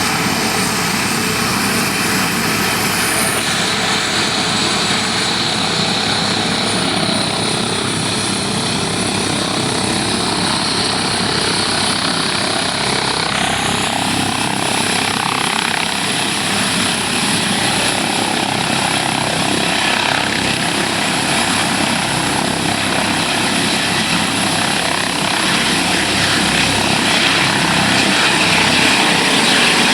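Helicopter running, a loud, steady, dense rushing noise; its character changes abruptly about three seconds and thirteen seconds in.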